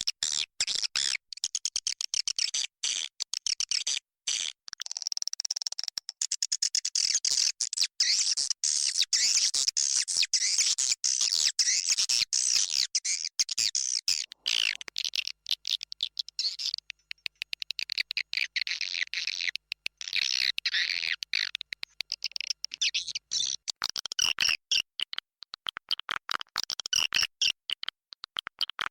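Swiftlet lure call: a dense chorus of edible-nest swiftlets twittering, rapid chirps and clicks packed closely together. It is the roosting ("inap") call played to draw swiftlets into a nesting house.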